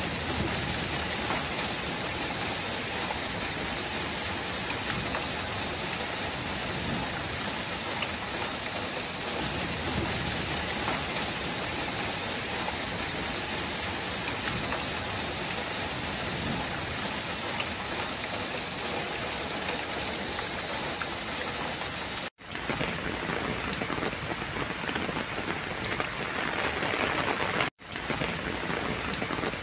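Heavy rain falling in a steady, dense hiss, with two abrupt cuts to new recordings of the same downpour, about two-thirds of the way through and again near the end.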